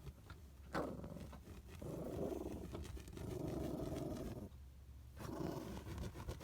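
Small chihuahua growling: two long, rough growls, the second starting about five seconds in.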